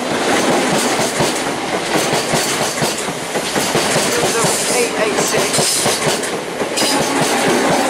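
Greater Anglia electric multiple unit running past close by: steady wheel and rail noise with a quick clatter of clicks as its wheels cross the rail joints.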